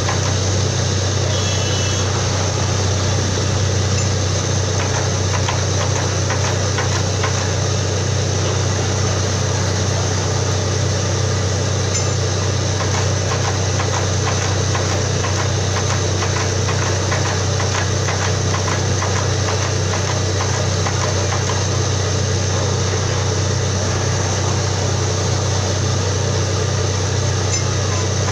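Borewell drilling rig's engine running steadily, a constant heavy drone.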